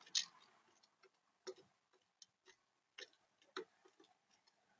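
A bird pecking at seed on the feeder: sharp, irregular taps and clicks, about six in four seconds, the first the loudest.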